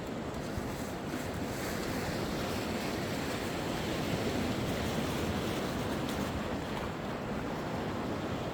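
Sea waves washing onto the shore: a steady rush of surf that swells a little in the middle.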